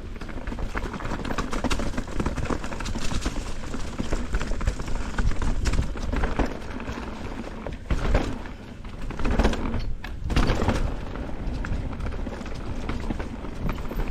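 Mountain bike riding down a rough downhill trail: tyres running over dirt, rocks and roots, with constant rattling and many irregular knocks and thuds as the bike takes hits.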